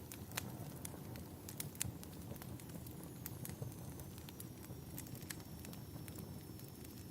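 Wood fire crackling in a fireplace: irregular sharp pops and snaps, the loudest about a second and a half in, over a steady low rumble.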